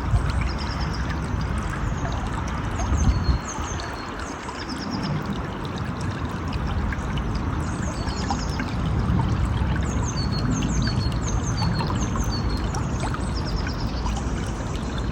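River water rushing steadily, with a bird repeating short, high chirps in quick runs of three or four over and over. A brief low rumble swells about three seconds in.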